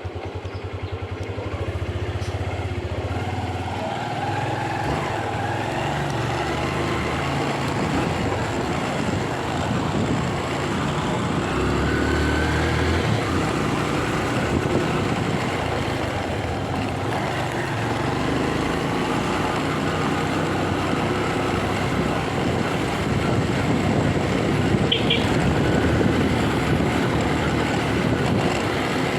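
Motorcycle engine running on the move, mixed with steady wind and road noise; its pitch rises and falls a few times with the throttle.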